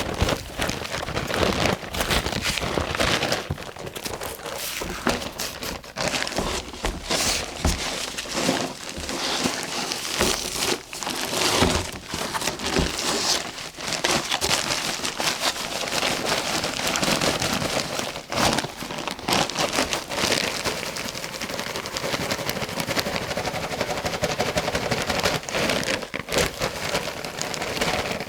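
Garden hoe scraping and churning mortar mix in a mixing pan: a continuous gritty scraping with irregular knocks and crackles.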